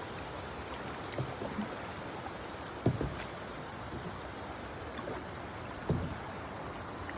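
Creek water running steadily, with a few short dull knocks, about three seconds in and again near six seconds.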